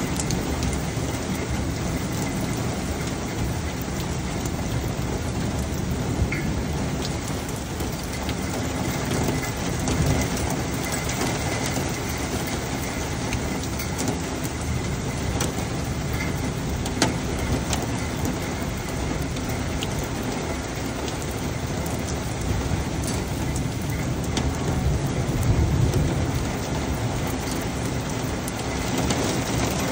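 Heavy rain pouring steadily on the street and surrounding surfaces, with scattered sharp taps of drops close by. A low rumble swells briefly about 25 seconds in.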